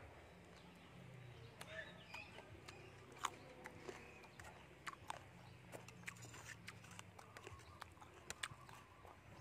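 Quiet close-up chewing of raw Thai eggplant, with many scattered crisp mouth clicks, the loudest a little over three seconds in, over a faint low steady hum.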